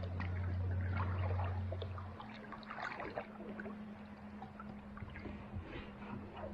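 Kayak paddle strokes in calm water: splashes and drips from the blade at uneven intervals, with a low steady hum that cuts off about two seconds in.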